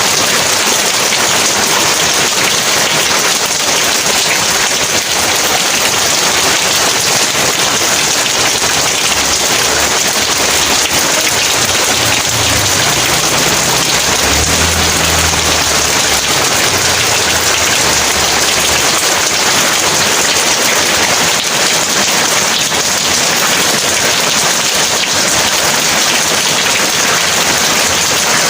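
Heavy rain falling steadily in a dense, even hiss. About halfway through, a low rumble of distant thunder swells and fades over several seconds.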